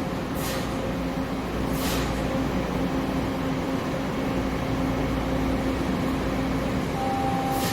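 TTC subway train standing at a station platform: a steady electrical hum and rumble, with two short bursts of air hissing about half a second and two seconds in. A faint steady higher tone joins near the end.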